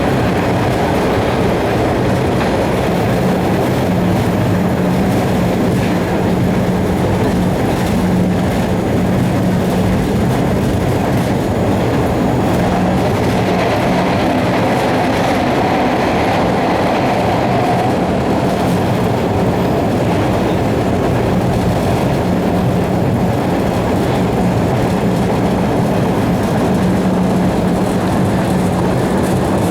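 Inside a Red Line subway car running on the track: a steady rumble of wheels on rail with a constant low hum, unbroken throughout.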